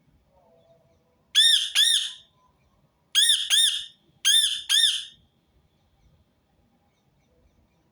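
Rose-ringed parakeet calling loudly in doubled squawks: three pairs of short calls, each call rising and falling in pitch.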